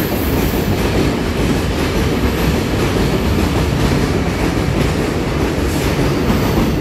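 Ten-car EMU900 electric multiple unit running past close by: a loud, steady noise of wheels and running gear on the rails, heaviest in the low range.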